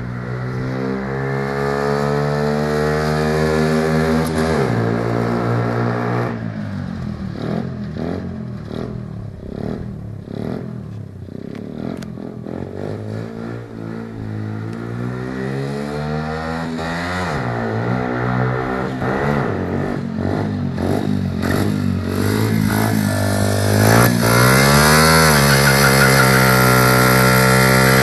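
Small motorcycle engine revving. The pitch climbs for the first few seconds, then drops sharply, rises and falls irregularly through the middle, and climbs again near the end to hold at a steady high speed.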